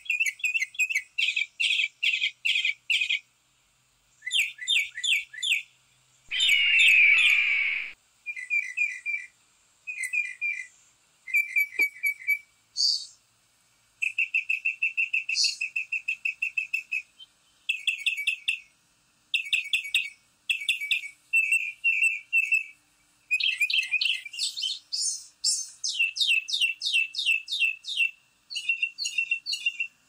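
Birds chirping in quick repeated runs of short notes, with a louder, harsher call lasting about two seconds around six seconds in.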